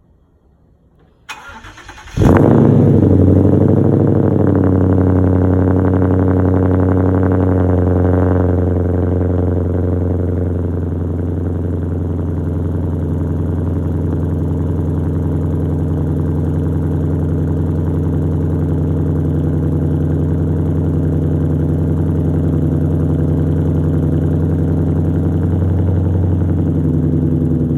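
2014 Ford Mustang GT's 5.0-litre V8 cold start: the starter cranks briefly, the engine catches loudly about two seconds in, then runs at a fast cold idle. The idle eases down a little between about eight and eleven seconds in and then holds steady.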